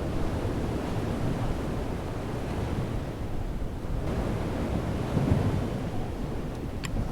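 Surf breaking on the shore with wind buffeting the microphone: a steady rushing noise that swells briefly about five seconds in.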